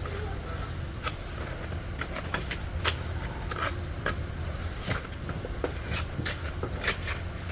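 Crickets chirping steadily, with a dozen or so scattered sharp clicks and knocks at irregular intervals.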